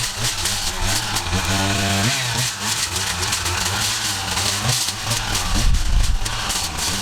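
Petrol engine of yard equipment running steadily, with a brief higher tone about a second and a half in.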